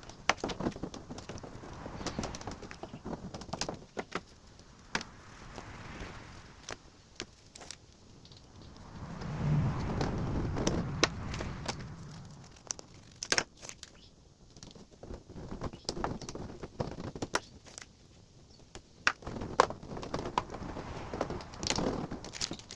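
Foil-backed sound-deadening mat being handled and pressed into place: irregular crinkling and crackling with many sharp clicks and taps.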